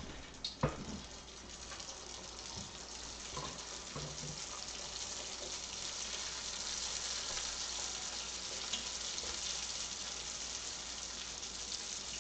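Vietnamese egg rolls (chả giò) deep-frying in a pan of hot oil: a steady sizzling hiss that builds a little over the first few seconds, with a couple of sharp knocks just after the start.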